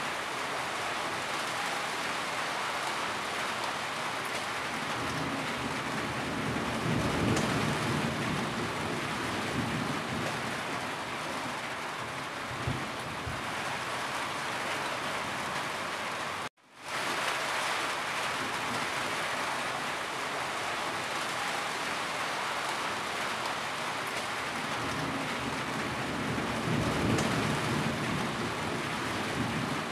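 Steady rain drumming on a corrugated tin roof, with water dripping from the eave. A low rumble swells up twice, and the sound cuts out for a split second just past the middle before fading back in.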